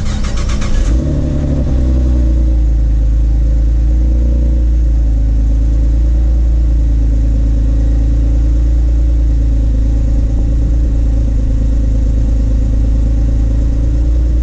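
Stock 5th-gen Camaro's 3.6-litre LLT V6 cold start through its factory exhaust: the starter cranks for about a second, the engine catches with a brief flare, then settles into a steady idle.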